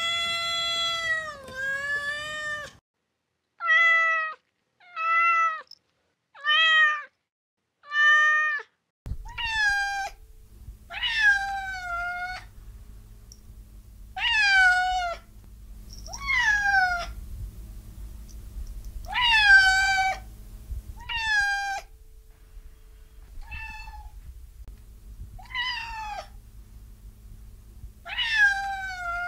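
Cat meowing over and over, about fifteen separate meows a second or two apart. About nine seconds in, the recording changes to one with a steady low hum behind it, where each meow falls in pitch at its end.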